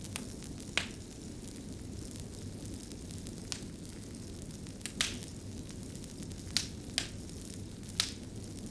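Fire crackling: about eight sharp, irregular pops, the loudest about five and eight seconds in, over a steady low rumble of burning.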